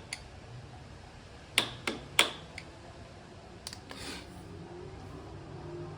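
Three sharp metal knocks in quick succession about a second and a half in, then a couple of lighter clicks and a short scrape: a screwdriver knocking a snap ring onto its seat on an ATV rear axle.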